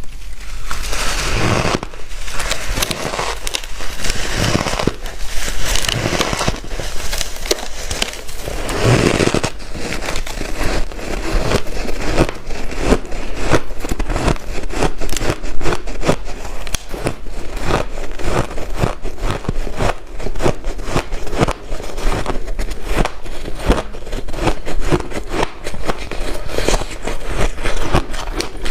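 Close-up crunching of white ice being bitten and chewed: a dense run of sharp crackles and crunches. About the first nine seconds also carry a rasping scrape.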